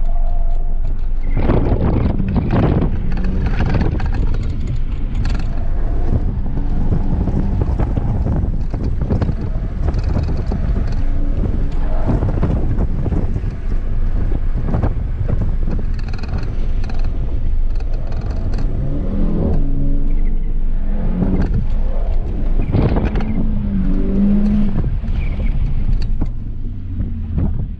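Volkswagen Mk8 GTI's turbocharged 2.0-litre four-cylinder engine under hard driving on an autocross course, revving up and down repeatedly through the corners over a steady rush of noise. It gets quieter near the end as the car slows.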